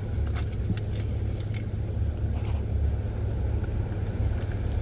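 A car's engine running at low speed, heard from inside the cabin as a steady low rumble, with a few faint ticks.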